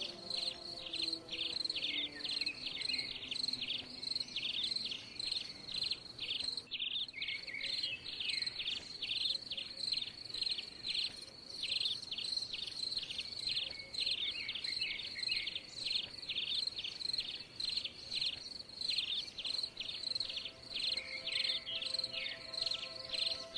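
Crickets chirping in a steady, rapid train of short high-pitched pulses, with a brief break about seven seconds in.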